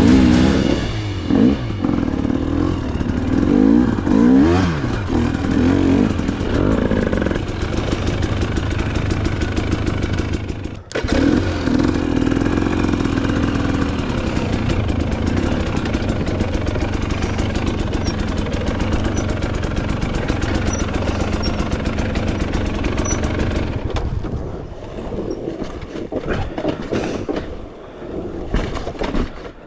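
Dirt bike engine running and revving up and down while riding. There is a momentary drop-out about eleven seconds in, and the engine runs lower and quieter over the last few seconds.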